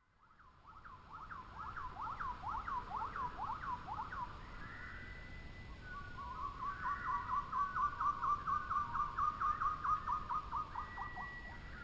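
A bird singing in fast runs of short, sweeping whistled notes, about five or six a second. It fades in at the start, and there are two long runs with a brief lull between them.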